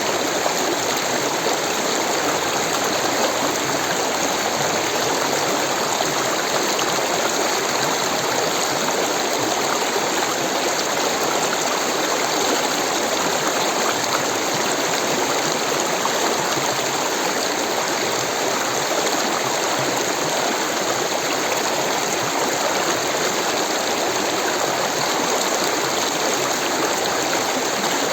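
Rushing water, a steady, even rush with no breaks or changes.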